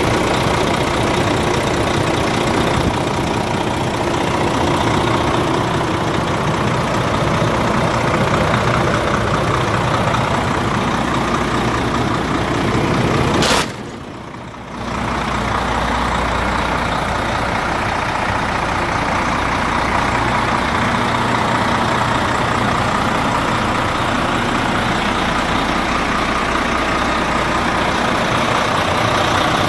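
Renault Premium Lander 450 truck's diesel engine running steadily at idle. About fourteen seconds in, a short sharp sound is followed by a brief drop in the sound, then the engine continues with a deeper low hum.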